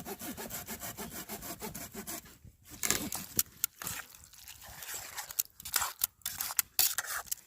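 Rapid rasping scraping strokes, dense for the first couple of seconds, then scattered scrapes and clicks with short pauses.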